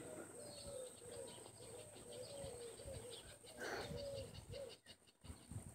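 A bird calling faintly: a run of short low notes, each a quick slide in pitch, about three a second. A brief rustle a little past halfway.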